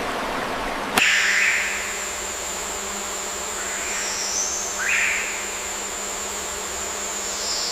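Rushing water hiss that cuts off abruptly about a second in, giving way to insects buzzing: a steady high drone with a few louder swells.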